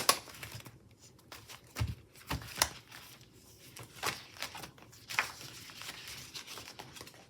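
Paper and sticker sheets being handled, with light rustling and a few scattered sharp taps and clicks, as stickers are picked and peeled from their sheet.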